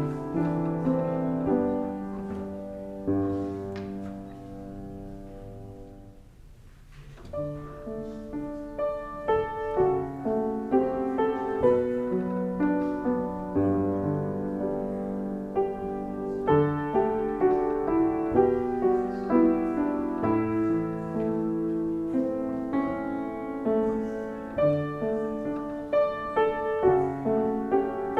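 Piano music, instrumental only. It thins out almost to nothing about six seconds in, then picks up again with steady runs of notes and chords.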